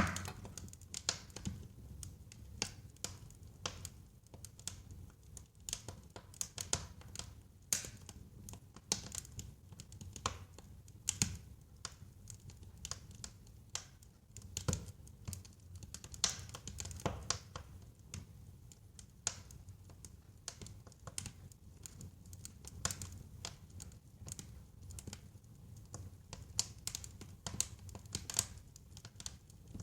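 Wood burning in a fireplace, crackling with irregular sharp pops of varying loudness over a low steady rumble.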